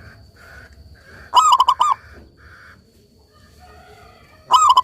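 Zebra dove (perkutut) cooing: a quick run of about five loud notes around a second in, and another run starting near the end, with fainter calls in between.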